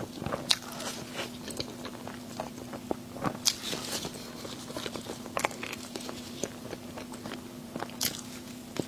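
Close-up eating sounds: biting and chewing crunchy food, a run of irregular crisp crunches and mouth clicks.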